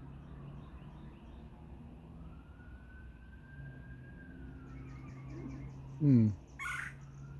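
A distant siren wailing slowly up and down, one long rise and fall that starts again near the end, over a steady low hum. About six seconds in there is a brief, louder sound.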